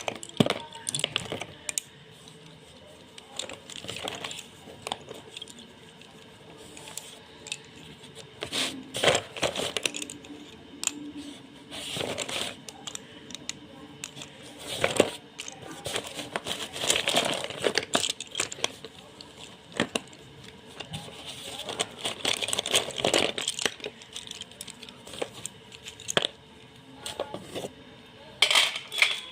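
Chand Tara slate pencils being bitten and chewed close to the microphone: sharp, brittle crunches and snaps every second or so, with gritty crumbling chewing between them.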